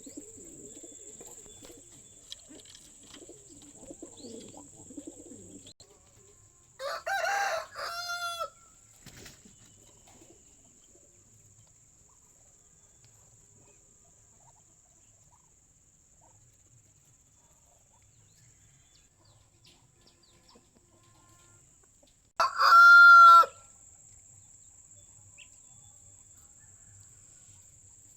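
A rooster crowing twice, about seven seconds in and again about twenty-two seconds in, with faint low cooing in the first few seconds.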